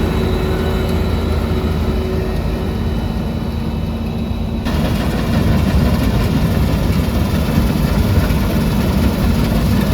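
Heavy diesel engine of harvest machinery running steadily. About halfway through the sound changes abruptly and becomes louder and fuller.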